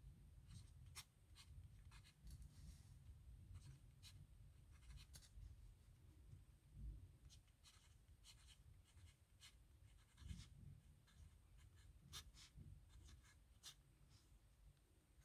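Faint scratching of a pen writing on paper, in short strokes at an irregular pace.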